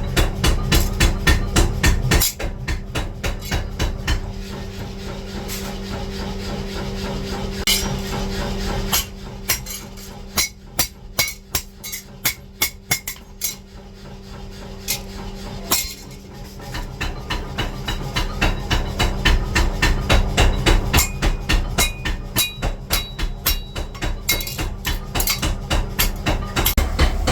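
Hammer blows on steel in quick runs of about three strikes a second, thinning to sparser strikes in the middle before picking up again, over a steady low machine hum.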